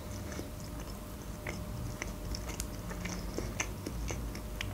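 Quiet chewing with the mouth closed, close to the microphone, with a few soft clicks about once a second.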